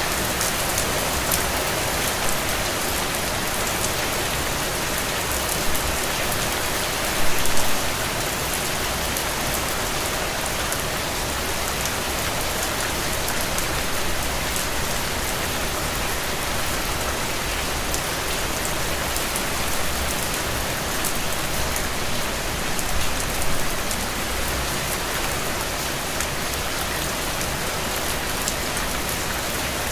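Steady rain pattering on a window, a dense even hiss of many drops with a few slightly louder gusts of drops.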